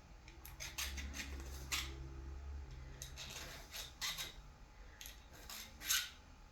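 Irregular scraping and clicking strokes of a part being worked by hand. A low hum joins in about a second in and lasts about two seconds.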